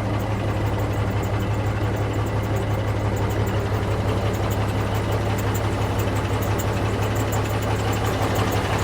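Cummins diesel engine of a 1980 Marmon cab-over truck idling steadily with a deep, even hum.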